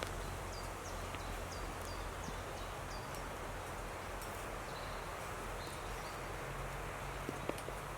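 Woodland ambience: a steady rustle of leaves and wind in the trees, with a bird giving a run of short, high, falling chirps in the first three seconds. A single small click comes near the end.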